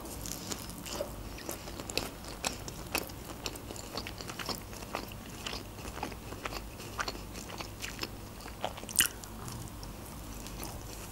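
Close-miked chewing: a steady run of small mouth clicks and crunches as food is bitten and chewed, with one louder click about nine seconds in.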